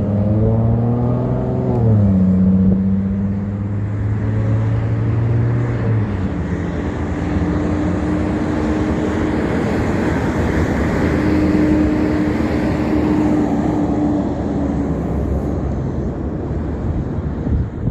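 Big truck's engine running loud, its pitch dropping about two seconds in and dying away by six seconds. It is followed by a swelling rush of tyre and road noise from heavy traffic passing close by.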